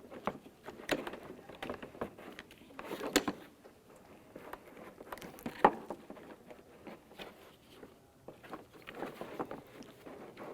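Irregular plastic clicks, taps and small knocks of hands fitting a car door lock actuator inside the door and lining up its mounting screw, with one sharper knock about five and a half seconds in.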